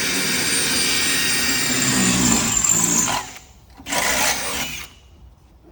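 A power tool running in two bursts, a high whine over hiss: about three seconds, then a shorter second burst about a second later.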